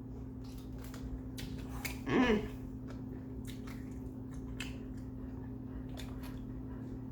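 Close-up chewing of kimbap: soft wet mouth clicks and smacks, with a brief low voiced sound falling in pitch about two seconds in, over a steady electrical hum.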